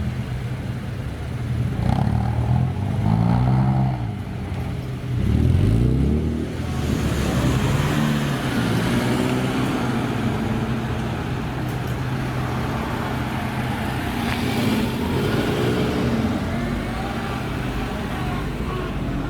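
A modified Japanese sports car's engine is revved a few times. The car then pulls away with a wash of road noise, its engine note rising twice.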